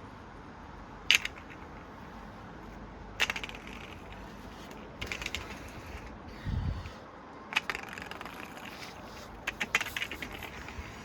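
Coins dropping into a Precept coin-operated amusement machine: a series of sharp metallic clicks, each followed by a brief rattle as the coin runs through the mechanism, with a dull low thud about halfway through.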